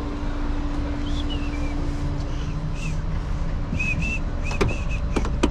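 A tow truck's engine running with a steady low rumble and hum. Short, high chirps repeat throughout, and two sharp metal clanks come near the end, typical of tow chains or hooks being handled.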